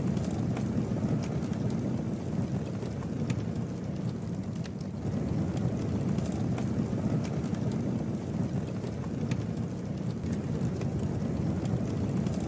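Campfire burning: a steady low rush of flames with scattered sharp crackles and pops from the wood.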